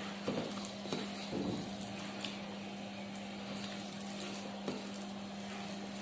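Food frying in a pan with a soft, even sizzle and a few light knocks of a utensil, over a steady low hum.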